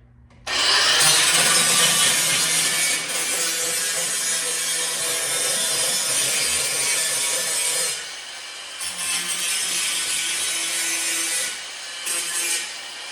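Power tool cutting through metal, a loud harsh steady cutting noise over a motor hum, starting about half a second in and easing off briefly about 8 s and 12 s in. The metal is hard to cut.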